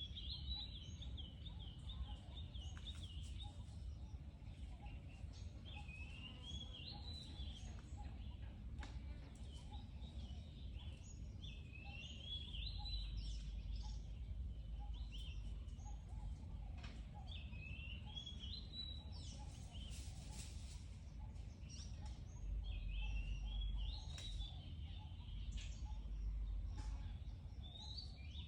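A songbird repeating a short, rising, warbled phrase every four seconds or so, over a steady low rumble.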